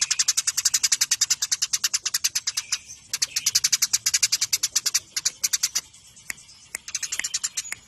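Eurasian tree sparrows chirping in a rapid, tight string of sharp high notes, about a dozen a second, in the fast 'fighting' call style. There is a short break about three seconds in and sparser single chirps a little past the middle.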